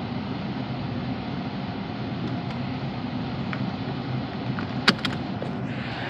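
2016 Nissan Versa's four-cylinder engine running steadily after a serpentine belt replacement, with one sharp click a little before five seconds in and a rise in hiss near the end.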